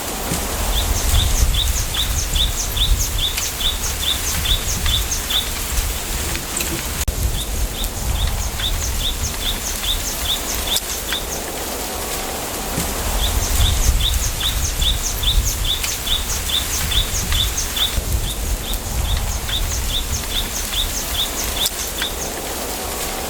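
Bamboo grove ambience: wind hissing through the bamboo leaves with a low wind rumble, while a small bird repeats a short, high chirp in runs of about three a second, pausing between runs.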